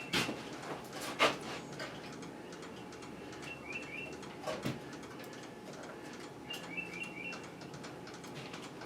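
A few sharp knocks and clicks, the loudest just after the start and about a second in, with a small bird chirping three times in short quick clusters of high notes.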